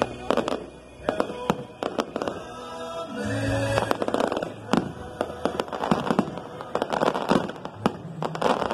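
Aerial firework shells bursting in a rapid series of bangs and crackles, with the show's music playing underneath.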